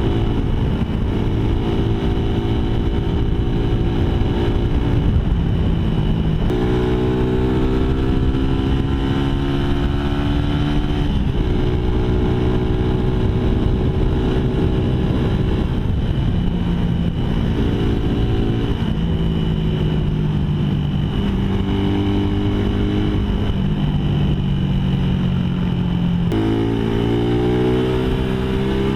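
Suzuki Raider 150 motorcycle's single-cylinder four-stroke engine running through an open big-elbow, big-tip exhaust with no catalytic converter. The bike is being ridden, and its exhaust note steps up and down in pitch several times as the revs change.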